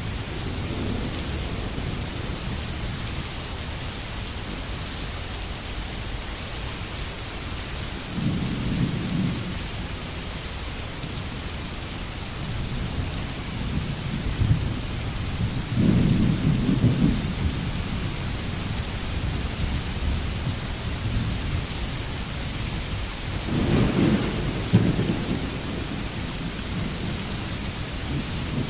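Steady rain falling, with low rolls of thunder three times: about a third of the way in, in the middle, and near the end.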